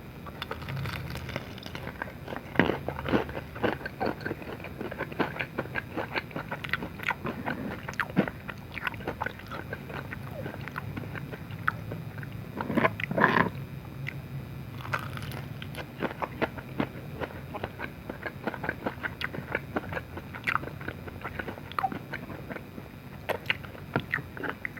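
Close-miked biting and chewing of fried dim sum coated in sambal: many short crisp crunches and mouth sounds, with the loudest crunching about halfway through.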